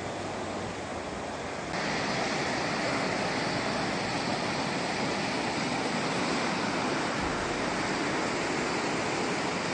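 Floodwater rushing past in a steady, full flow, growing louder about two seconds in.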